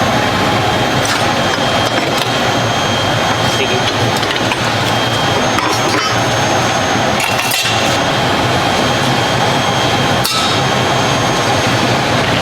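Loud, steady running noise of workshop machinery, with a few sharp metal knocks and clinks scattered through it.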